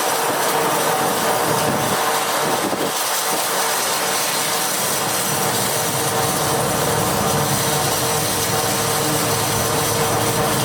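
Steady machinery noise with a constant hum, without distinct strikes or pauses.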